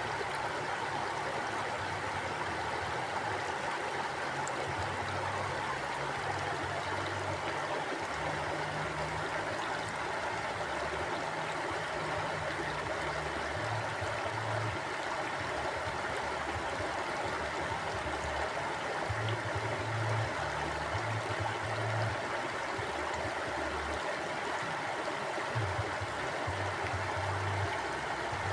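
Mountain river flowing: a steady rush of water, with a low, uneven rumble underneath.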